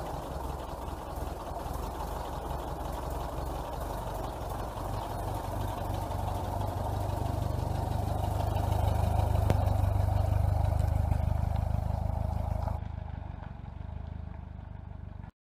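A motor vehicle engine running steadily, growing louder as the vehicle moves close past, then fading; the sound cuts off just before the end.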